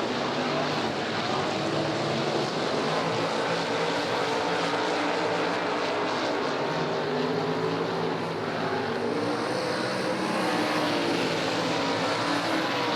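A field of sprint cars racing around the oval just after a restart, their engines blending into a steady drone whose pitch gently rises and falls as the cars circle.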